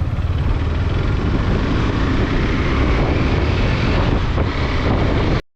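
Motorcycle engine running at road speed under heavy wind rush on the microphone. The sound stays loud and steady, then cuts off abruptly near the end.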